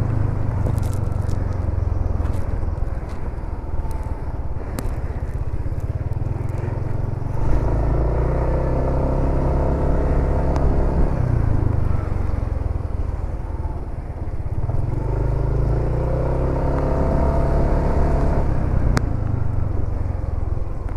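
Motorcycle riding on the road: a steady low rumble of engine and wind on the microphone, with the engine note rising and falling twice, about 8 and 15 seconds in.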